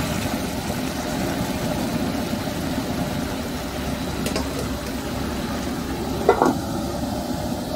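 Sliced squash frying in a large wok: a steady sizzling, rushing noise with a low hum under it. There is a faint click about four seconds in and a short pitched sound a little after six seconds.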